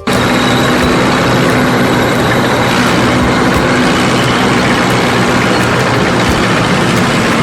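Heavy vehicle engine running steadily, a construction-vehicle engine sound effect.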